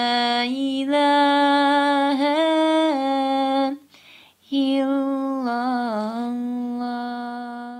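A single unaccompanied voice chanting an Islamic religious melody in long, held, ornamented notes. The voice breaks off briefly about four seconds in, then starts a second phrase that slowly fades away near the end.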